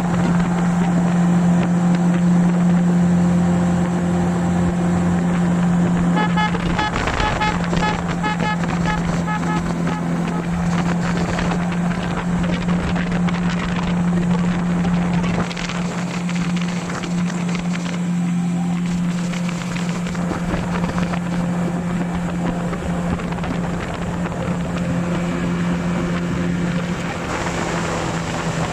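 Motorboat or jet-ski engine running steadily at a constant pitch, with wind buffeting the microphone.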